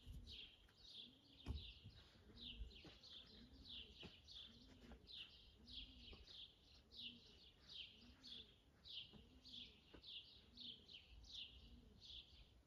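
Small birds chirping faintly: a steady run of short, falling chirps, about three a second, without a break.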